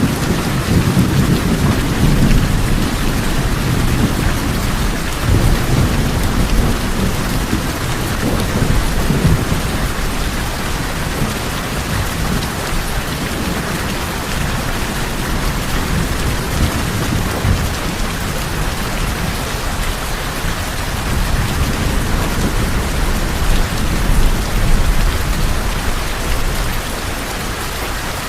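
Steady rain falling on a tin roof, with low thunder rumbling through the first ten seconds or so and again later on.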